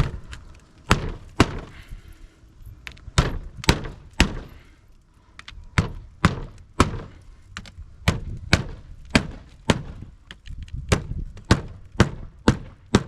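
Hammer driving roofing nails into asphalt shingles: a run of sharp blows, about two a second, in short groups with brief pauses between them.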